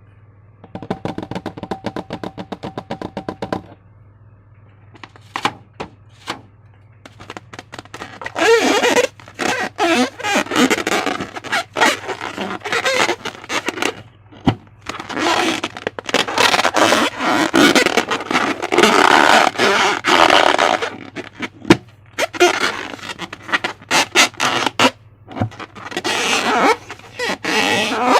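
Slime being squeezed and worked by hand, giving sticky crackling and popping in repeated bursts over a steady low hum. It opens with a quick run of even clicks.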